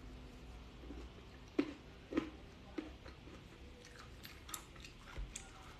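A person chewing a mouthful of salad with the mouth closed, close to the microphone: three soft wet clicks about half a second apart from about a second and a half in, then a few fainter ones near the end.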